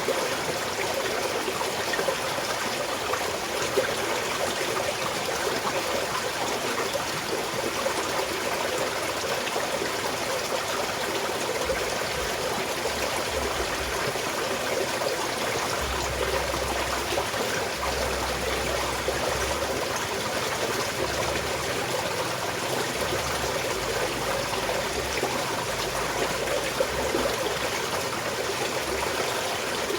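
Small mountain stream flowing and trickling steadily over rocks.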